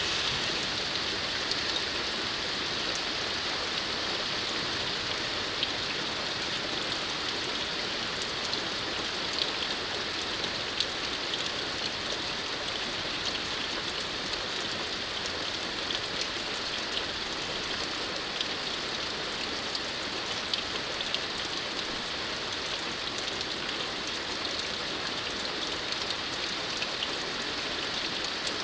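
Steady rain falling, an even hiss with scattered individual drops ticking on a nearby surface.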